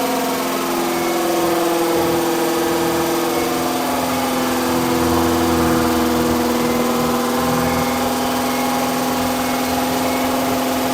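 Engine running through the break-in of a freshly installed camshaft. Its speed sags a little in the middle and then climbs back.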